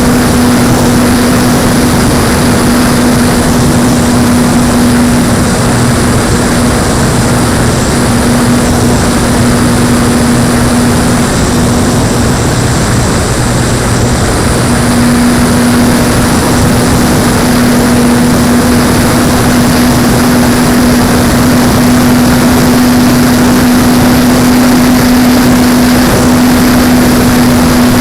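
Electric motor and propeller of an Apprentice S 15e RC trainer plane running at a steady pitch under heavy wind noise. The tone fades for a few seconds about halfway through.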